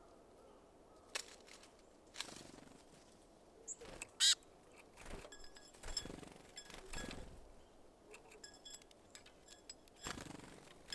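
Small wild birds at a feeder: scattered knocks and brief fluttering rustles, a sharp high call about four seconds in, and a run of quick high chirps through the second half.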